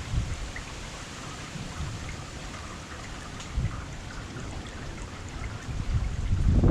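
Rain falling steadily, a constant hiss dotted with the ticks of single drops. Wind buffets the microphone in low gusts that grow stronger near the end.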